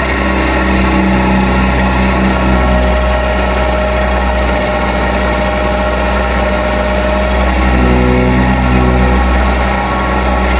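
Case 580B backhoe's engine running steadily, with a thin steady whine through the middle seconds and a change in the engine note about eight seconds in.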